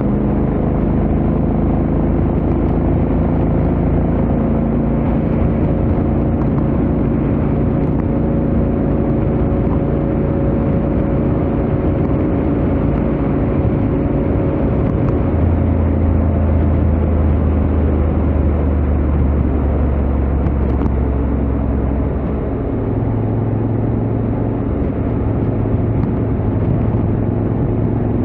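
Honda X-ADV 750's parallel-twin engine running through its stock exhaust at highway speed, over wind and road noise. The low engine note changes pitch about fifteen seconds in and again around twenty-two seconds.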